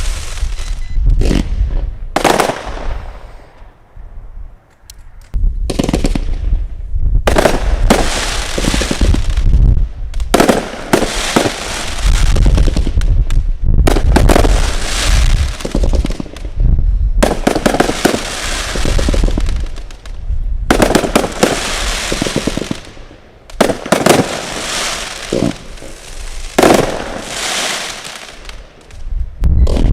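Consumer firework cakes firing in rapid volleys of shots and crackling aerial bursts, with a short lull about four seconds in.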